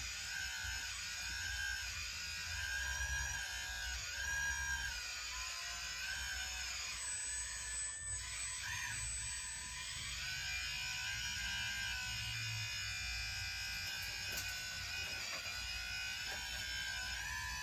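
Small electric gear motors of radio-controlled construction models whining as they work, the pitch rising and falling repeatedly as the throttle changes.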